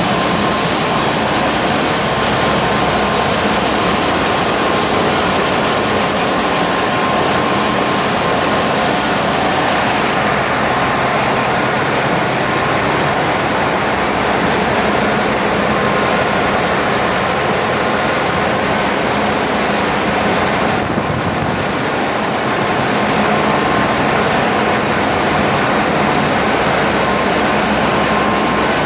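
Ship's engine-room machinery running: a loud, steady mechanical din with a few constant humming tones in it.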